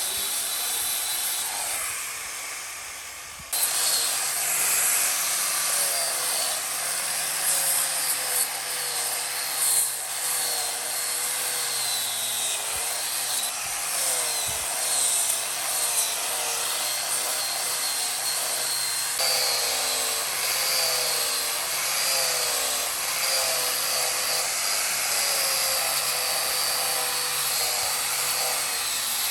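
Handheld electric power tool working wood, its motor whining and wavering in pitch as it bites. It fades briefly about two seconds in, then comes back in sharply and runs on steadily.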